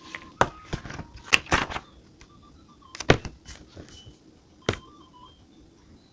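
Scattered clicks, taps and light knocks of journaling supplies being handled on a desk, several in quick succession early on and single sharper ones about three and nearly five seconds in, over a faint soft melody.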